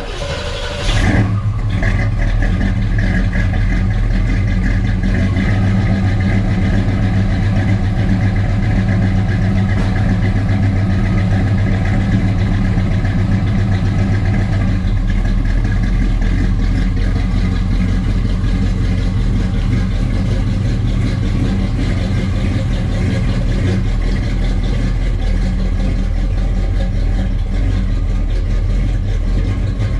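Chevy Nova's small-block 350 V8 cold-starting after sitting for about a week: it catches about a second in, then runs steadily at idle.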